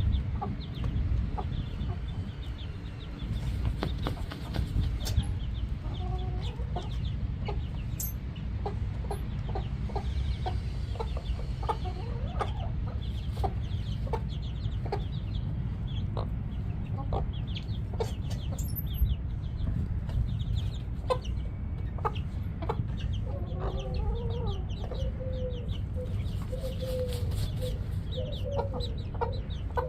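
Chickens clucking with short repeated calls, more of them near the end, over a steady low rumble and scattered small clicks.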